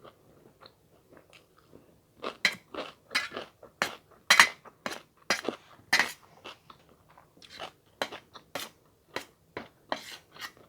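A person chewing food with crisp crunching, close to the microphone: soft for the first two seconds, then a quick, irregular run of sharp crunches.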